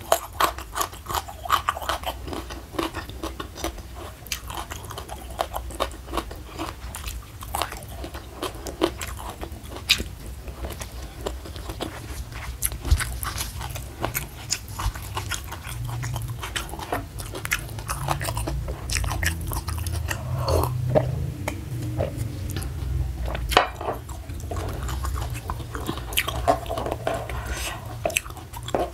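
Close-miked chewing of crunchy food, with frequent sharp crunches and wet mouth clicks.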